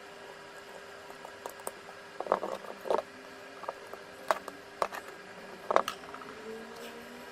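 Scattered sharp clicks and taps of small hard parts being handled, a quick cluster about two seconds in and then single clicks, over a steady faint hum.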